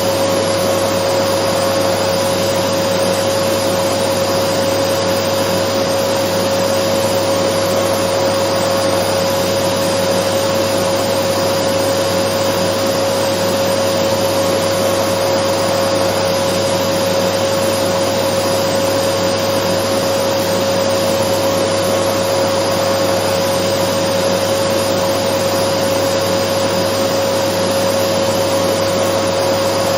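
Dyson vacuum cleaner running steadily: a constant rushing of air with a strong, unchanging whine.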